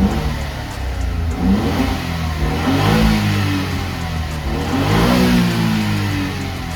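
Honda S660's small turbocharged three-cylinder engine revved up and back down twice through an HKS Hi-Power Spec-L aftermarket exhaust muffler.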